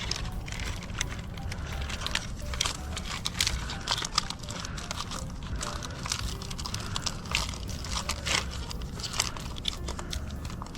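Irregular clicks, crackles and rustling of hands handling LiPo battery packs and plastic parts while fitting the batteries into an RC car, over a low rumble.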